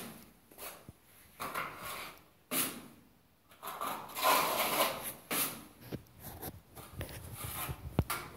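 A plastering tool scraping and smoothing stiff gypsum plaster in a series of short, irregular strokes, with a sharp tap near the end.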